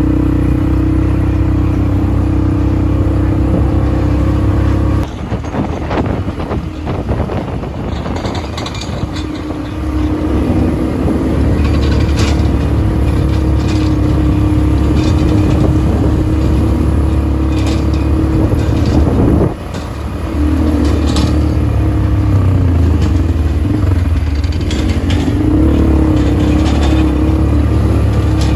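ATV engine running with a steady drone that dips about five seconds in and briefly again about two-thirds of the way through, with scattered rattles and knocks over it.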